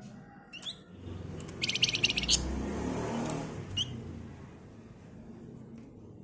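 A Flamboyan songbird calling: a short upswept chirp, then about two seconds in a fast, dry rattling trill ('ngebren'), then another upswept chirp. A low rumbling noise swells and fades underneath.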